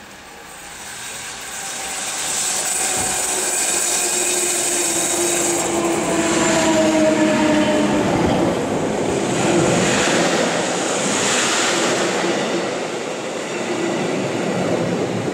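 Montreux–Oberland Bernois metre-gauge electric locomotive and its GoldenPass coaches approaching and running past close by. The motor hum and wheel noise grow louder over the first two seconds and then stay loud, with humming tones that slide down in pitch about halfway through.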